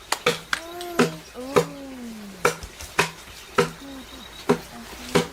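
A steady series of sharp strikes on wood, about nine of them roughly every half-second to second, each with a short dull ring. A few short rising-and-falling calls sound over the first two strikes.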